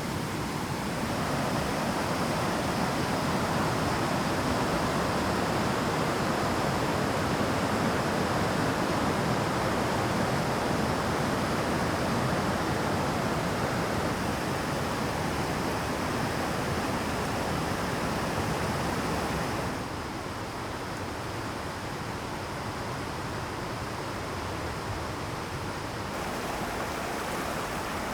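Mountain stream rapids: a steady, dense rush of water tumbling over rocks. The level drops a little about two-thirds of the way through and rises again near the end.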